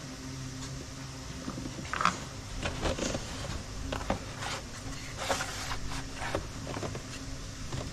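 Scattered plastic clicks, taps and rustling as a car's air filter element and airbox housing are handled and worked into place, over a faint steady hum.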